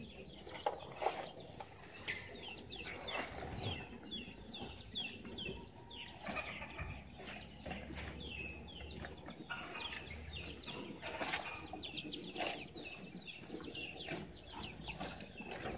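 Birds calling in runs of short, high, falling chirps, with a few scattered knocks.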